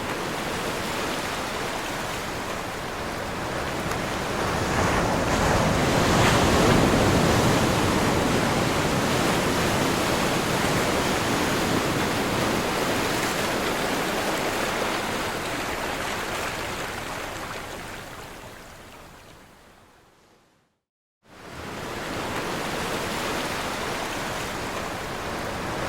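Ocean surf: a continuous rush of breaking waves that swells to its loudest about six seconds in, then fades away to silence. After under a second of silence the surf rises again.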